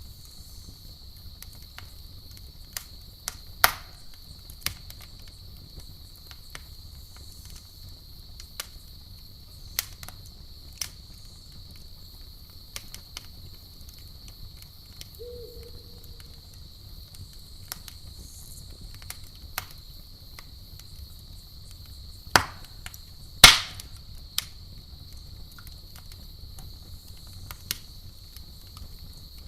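Campfire crackling, with scattered sharp pops and two louder pops close together about three-quarters of the way in, over a steady high chirring of crickets and a low rumble.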